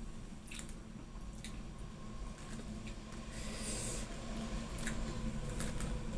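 A person eating gado-gado close to the microphone: wet, squishy chewing with a few small sharp clicks, and a short hissy burst about three and a half seconds in. A steady low hum runs underneath.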